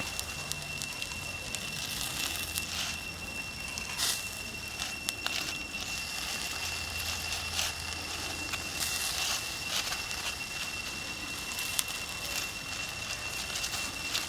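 Open campfire crackling, with irregular sharp pops from the burning wood, over a steady high-pitched whine.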